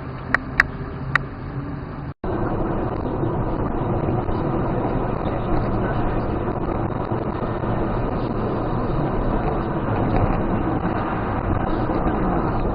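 Steady road and engine noise of a moving car, as heard from inside the vehicle. It starts after a brief cut about two seconds in, and a few sharp clicks come before the cut.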